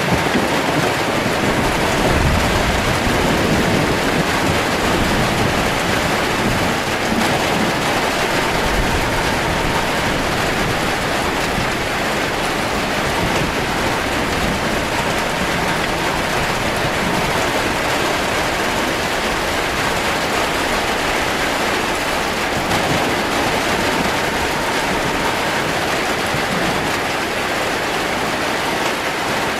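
Torrential rain on a metal roof, a steady dense hiss, with low rumbling thunder that is strongest in roughly the first ten seconds.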